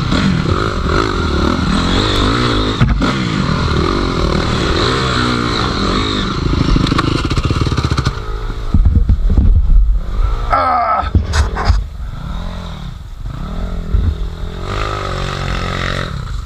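Enduro dirt bike engine revving up and down repeatedly as it is ridden over rough ground, with a louder, rougher stretch of knocks and clatter about halfway through.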